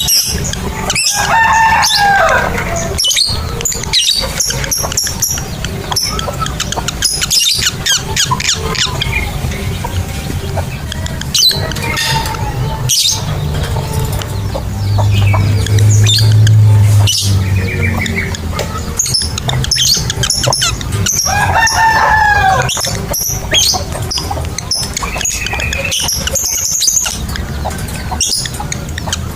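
Lovebirds chirping and chattering in sharp, high-pitched calls and short gliding chirps, coming in clusters with brief pauses. A low hum swells for a couple of seconds about halfway through.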